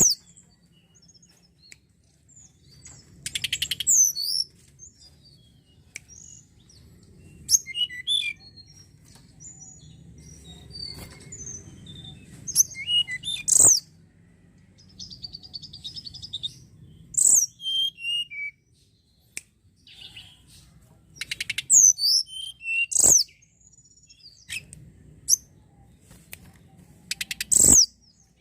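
Tledekan gunung singing: short bursts of high, sharp whistled notes and fast rattling trills, repeated every few seconds with pauses between. A few sharp clicks stand out among the phrases.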